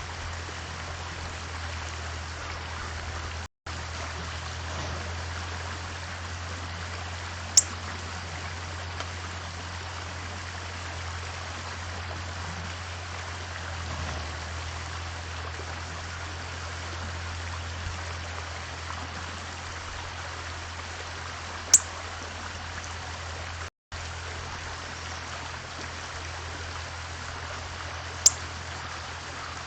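Three short, sharp, high chip notes from birds at a feeder, spread across a steady rushing background like running water with a low hum under it. The audio cuts out completely for an instant twice.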